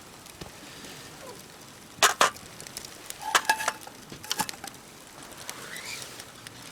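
Wood campfire burning with a low steady hiss and sharp crackling pops: two about two seconds in, then clusters a little after three seconds and just past four seconds.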